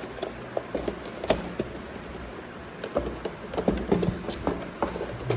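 Handling noise of a Bluetooth speaker being pulled out of its tight-fitting retail box with one hand: scattered knocks, taps and scrapes of the box and packaging, busier in the second half.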